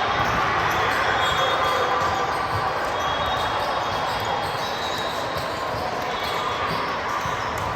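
Busy sports-hall din of a volleyball tournament: many overlapping voices echoing, with balls bouncing and being struck on the hard court.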